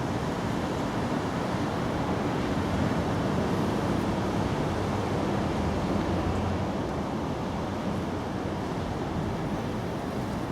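Steady rushing background noise with no distinct events, heaviest in the low end.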